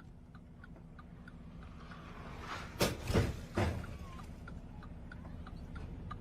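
A rising rumble as a vehicle comes close, then three heavy thuds within about a second, over a steady low engine hum and faint regular ticking.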